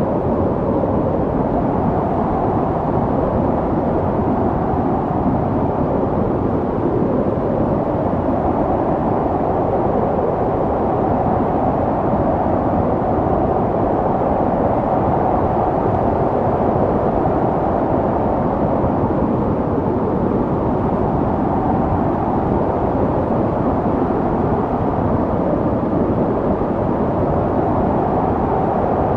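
Snowstorm wind blowing steadily: a dull, rushing noise with little treble, swelling and easing only slightly.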